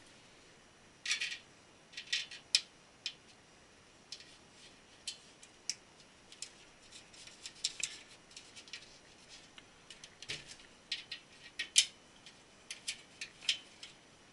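Computer case hardware being handled: an irregular run of light plastic and metal clicks and clacks, with the loudest snap about twelve seconds in.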